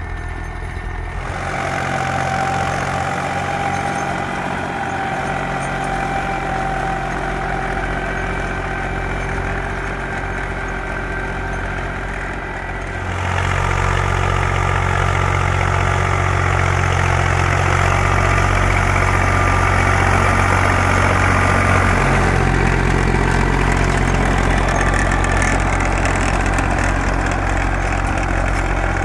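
Zetor 5245 diesel tractor running steadily under load while driving a Howard rotary tiller through freshly plowed soil; the sound grows louder about halfway through and stays there.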